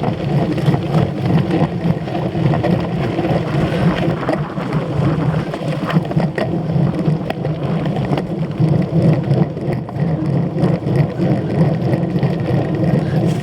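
Wind buffeting and rattling clatter as a cyclocross bike is ridden fast over bumpy ground: a steady loud rumble with irregular sharp clicks throughout.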